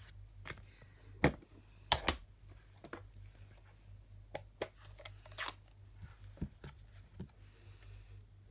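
Craft tools and paper handled on a work table: a few sharp taps and clicks, the loudest a close pair about two seconds in, with light handling noise between.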